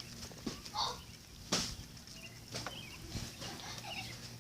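A few sharp knocks and clatters, the loudest about a second and a half in, with brief faint vocal sounds between them.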